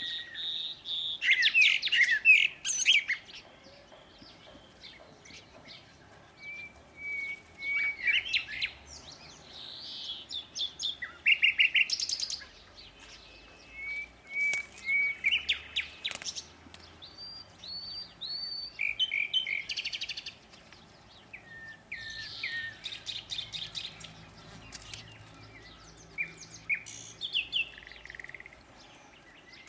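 Several small songbirds singing: short phrases of quick chirps, trills and repeated whistled notes, coming every few seconds with brief pauses between them.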